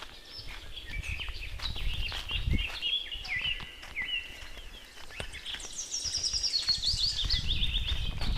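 Birds chirping in quick repeated trills, one series stepping down in pitch near the end, over a low rumbling background noise with scattered short clicks.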